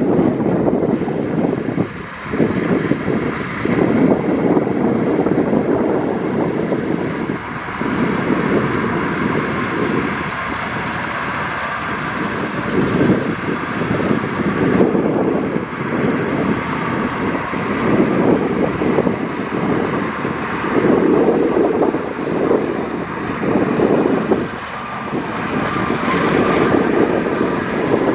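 Diesel engine of heavy earthmoving machinery running under load, its level swelling and dipping every second or two.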